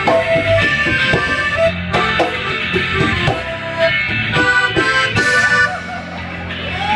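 Live band playing an instrumental passage with no singing: sustained notes over a plucked rhythm.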